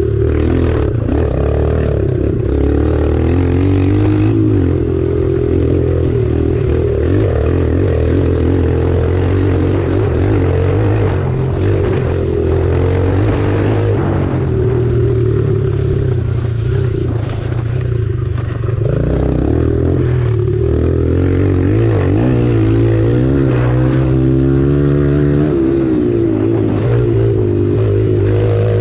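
Kawasaki KLX140 pit bike single-cylinder four-stroke engines running hard, the pitch rising and falling with the throttle and gear changes, with a rising and falling rev about three-quarters of the way through.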